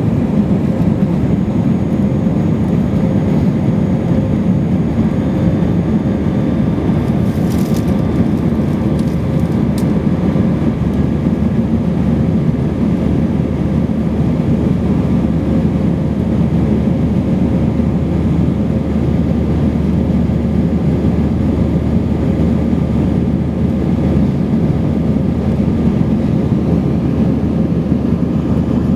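Steady cabin noise of an Airbus A320-232 in flight: the IAE V2500 jet engines and the airflow make an even low rumble with a faint steady hum, unchanging throughout.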